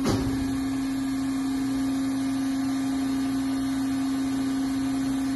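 Hydraulic power unit of a Hegenscheidt deep hole drilling machine running with a steady hum, with one brief knock right at the start.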